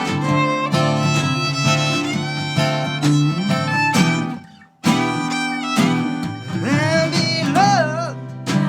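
Live band playing an instrumental passage, a violin over guitar. The music stops for a moment about halfway through, then comes back in, with a wavering, sliding melody line near the end.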